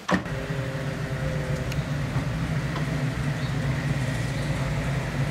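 Classic Ford Mustang fastback's V8 running steadily at low revs as the car rolls slowly up a street, after a brief click at the very start.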